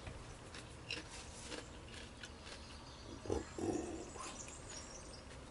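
Faint chewing and mouth sounds of a man eating pizza, with scattered small clicks and one brief low vocal sound about three and a half seconds in.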